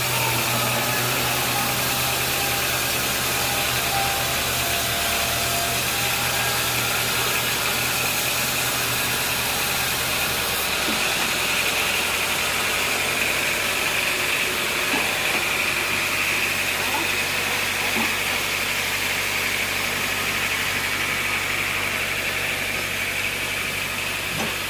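Sawmill machinery running with a steady engine-like drone; its low hum shifts about ten seconds in.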